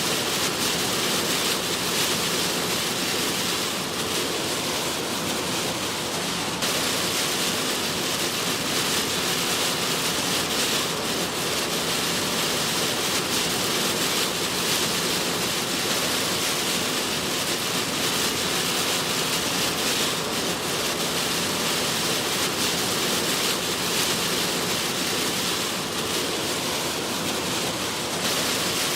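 Heavy storm rain on a moving car and its tyres on the wet road: a steady, dense hiss.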